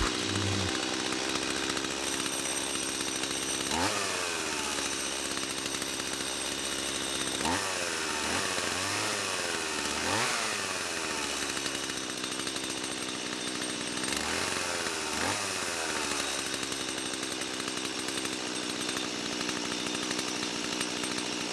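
Stihl MS170's small two-stroke engine running, blipped up to high revs several times and dropping back toward idle between blips. This is a test run after cleaning, chain tensioning and bar-oil filling, and the saw runs properly.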